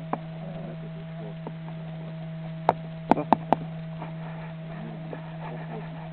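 Steady low electrical-sounding hum with faint distant voices, broken by a single sharp click near the start and a quick cluster of four sharp clicks about three seconds in.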